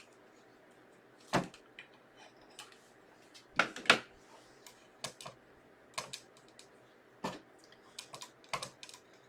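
Irregular light clicks and knocks of craft pieces being handled and set down on a tabletop, the loudest about a second and a half in and a pair just before four seconds in.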